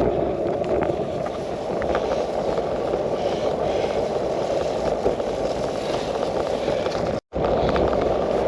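Wind rushing over a handlebar-mounted action camera's microphone while a bicycle rolls along a path, with tyre rumble and small rattles and clicks. The sound cuts out completely for a split second about seven seconds in.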